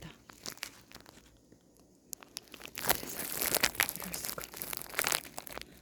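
Rustling and crinkling handling noise with many sharp clicks, sparse at first and thickest in the second half.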